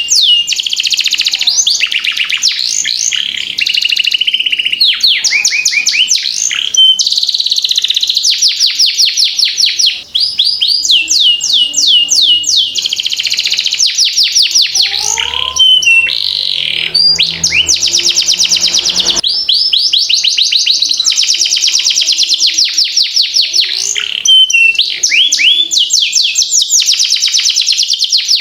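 Domestic canary singing a long, unbroken rolling song: runs of fast repeated notes and quick pitch sweeps, the pattern changing every second or two without a pause.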